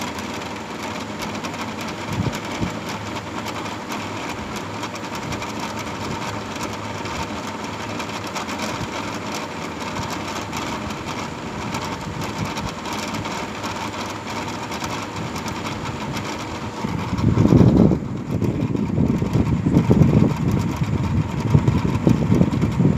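A steady motor drone with a constant hum, joined about seventeen seconds in by a louder, uneven low rumble.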